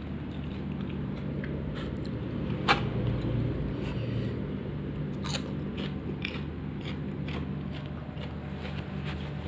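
Close-up chewing and crunching of crispy smashed fried chicken (ayam geprek), with scattered sharp crunches, the loudest nearly three seconds in, over a steady low hum.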